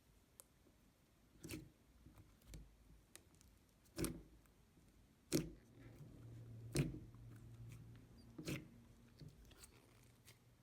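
Slime being squeezed and poked by hand, giving five sharp pops spaced a second or two apart, with faint squishing between.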